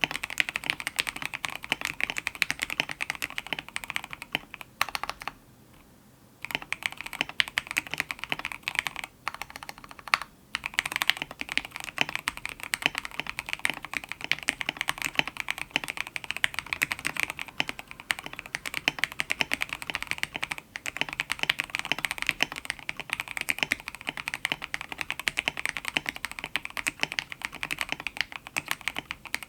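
Fast, continuous typing on a mechanical keyboard with lubed and filmed Gateron X linear switches: a dense stream of key clacks, with a pause of about a second around five seconds in.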